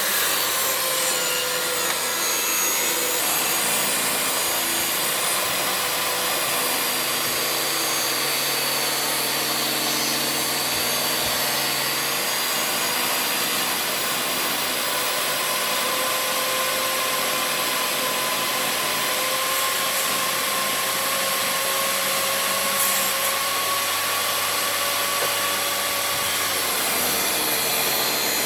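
Electric power tool running without a break while it works wood, its motor whine drifting slightly in pitch as the load changes.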